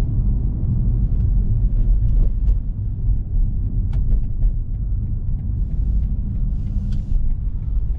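BMW M5 Competition's 4.4-litre twin-turbo V8 running steadily at low revs in slow city driving, a low rumble mixed with road noise. A couple of faint ticks can be heard around the middle and near the end.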